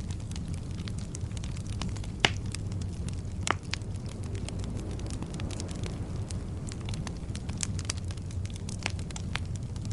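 Bonfire burning with a steady low rumble and frequent crackling of wood, with two sharper pops a little over two and three and a half seconds in.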